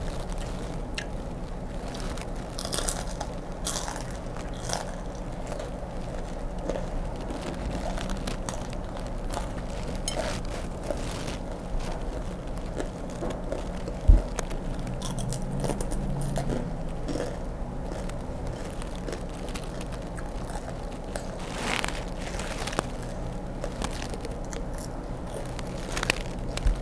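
Close-up crunching and chewing of deep-fried grasshoppers: irregular crisp crackles over a steady low hum. A single sharp low thump comes about halfway through.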